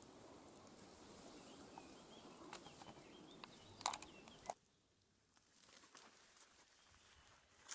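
Near silence: faint outdoor ambience with a few soft clicks and a faint bird chirp, the background hiss dropping away abruptly about four and a half seconds in.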